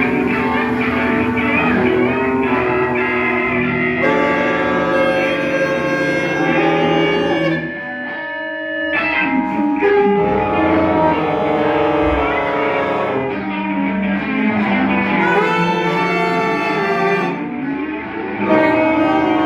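Improvising ensemble playing live: many instruments holding and shifting sustained notes together, with a brief thinning of the texture about eight seconds in before the full ensemble returns.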